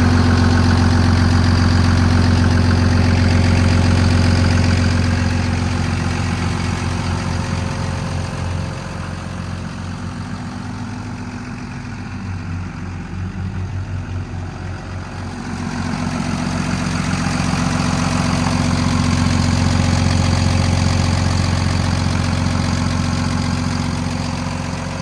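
The Kenworth T270's Paccar PX7 diesel engine runs with a steady low drone. About a third of the way in it drops and pulses unevenly for several seconds, then rises back to a steady drone.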